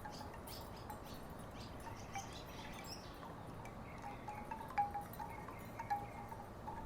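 Wooden tiki wind chimes knocking together in the breeze: scattered short, pitched clonks, the loudest about five and six seconds in.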